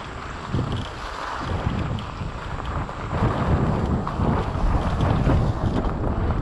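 Wind buffeting the microphone over a low rumble of bike tyres rolling along a rough gravel trail, growing louder about halfway through.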